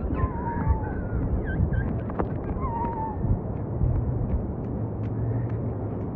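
Birds calling with short warbling whistles and chirps over a steady low rumble.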